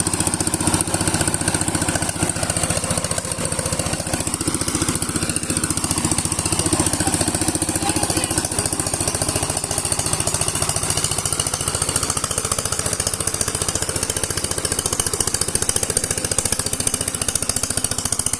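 Sifang power tiller's single-cylinder diesel engine running steadily, with a rapid, even chugging beat.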